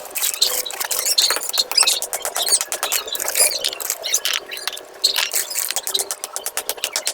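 Plastic waffle floor tiles clicking and squeaking as they are handled: a dense, irregular run of rapid sharp clicks.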